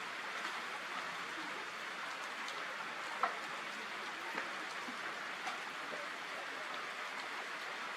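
Steady rain falling, an even hiss with scattered individual drops, one sharper drop a little over three seconds in.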